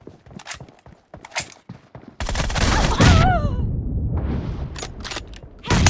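Shooter video game gunfire: scattered single shots for the first two seconds, then sustained automatic fire from about two seconds in, with another loud burst near the end.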